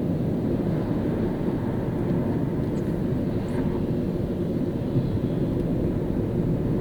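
Car driving on a rain-wet city road: a steady low rumble of engine and tyre noise, with a few faint high squeaks about three seconds in.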